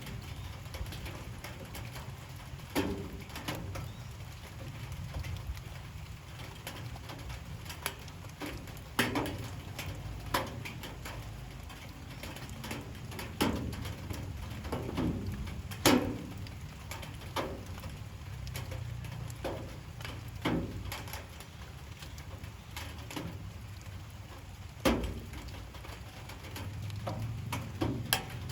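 Light rain falling: a steady low patter with heavier drips landing as sharp knocks at irregular intervals, about a dozen of them, the loudest about halfway through.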